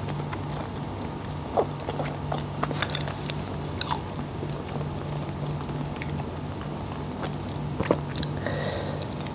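Close-miked chewing of seafood dressed in fish sauce, with scattered short wet mouth clicks and crackles over a low steady hum.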